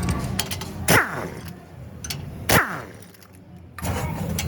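Two hard metal strikes about a second and a half apart, each ringing briefly, typical of hammer blows on a steel suspension part during bushing replacement.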